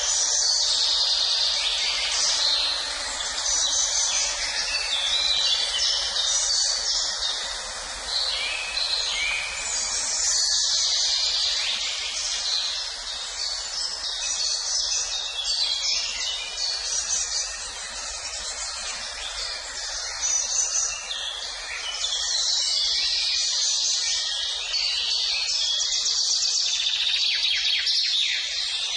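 Many birds singing and chirping at once in a dense, continuous chorus, with no pauses, over a steady hiss of background noise.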